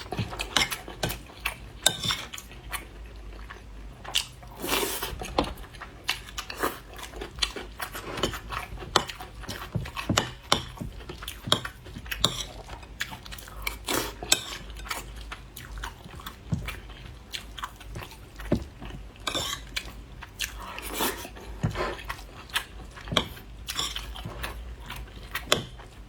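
A person chewing and biting fried rice with sausage close to the microphone, with irregular mouth smacks and occasional clinks of utensils against a dish.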